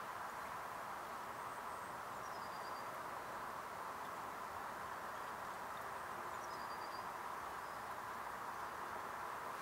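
Steady outdoor background hiss, with two faint high bird calls, each a short falling whistle, about two and seven seconds in.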